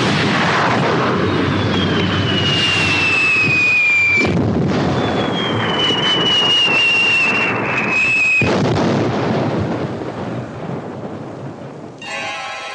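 Rockets and explosions: a continuous rumbling blast with two long whistles falling in pitch, each cut off by a fresh burst. Music comes in near the end.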